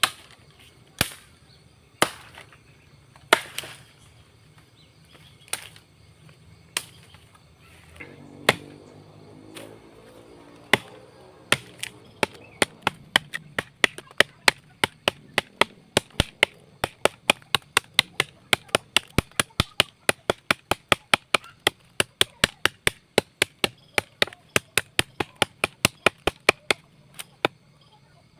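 Golok (machete) of leaf-spring steel chopping into a dry tree: a few single blows spaced a second or more apart, then, from about a third of the way in, quick steady chopping at about two to three strokes a second.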